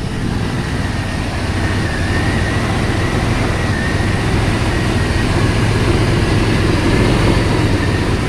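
Parts truck's engine running steadily just after starting right up, with a thin steady high whine over it; it sounds like it runs pretty good.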